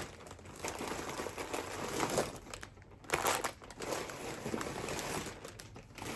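Plastic packaging bag crinkling as it is handled, in irregular rustles with a louder burst about three seconds in.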